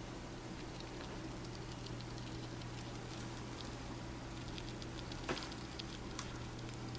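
Pet rats nibbling and chewing pieces of warmed carrot: faint, scattered small clicks, with one louder click about five seconds in.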